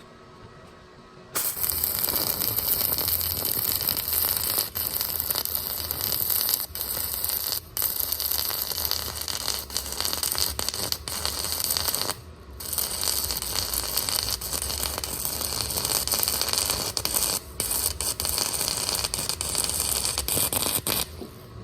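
Stick (arc) welding: the electrode's arc crackling steadily, starting about a second in, with a few brief breaks in the arc.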